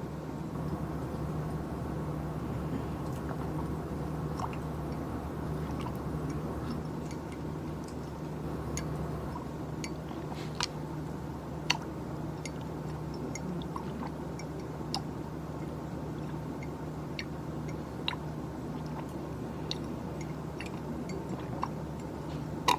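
Irregular small clicks and taps, sparse rather than a run of typing, over a steady low hum of office equipment. A few clicks are sharper and louder, about halfway through and at the end.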